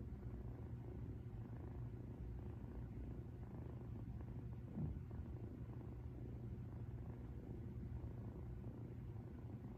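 Domestic cat purring steadily, a close low rumble. There is a brief louder sound about five seconds in.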